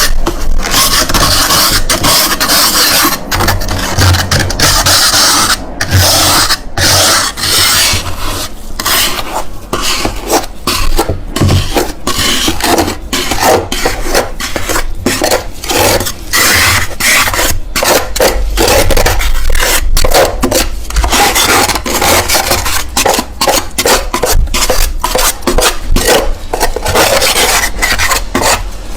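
Freezer frost crunching as it is bitten and chewed close to the microphone: a dense, uneven stream of gritty crunches.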